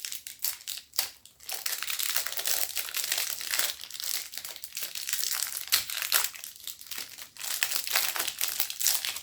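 Crinkling and rustling of a tobacco pouch and its plastic wrapping being handled, an irregular crackle with a couple of brief pauses.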